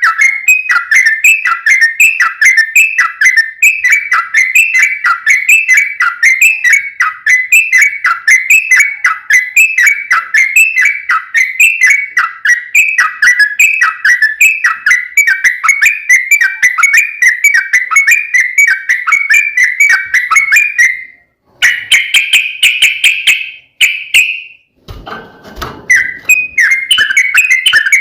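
Yellow-vented bulbul (trucuk) singing a long, rapid run of repeated whistled chirps. It breaks off about three-quarters of the way through, gives a short burst of a different call, and after a brief gap resumes the same rapid chirping near the end.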